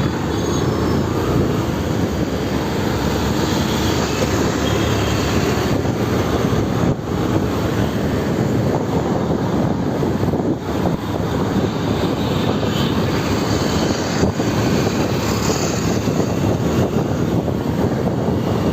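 Steady rushing noise of wind buffeting the microphone, together with engine and road noise, while riding a motorbike.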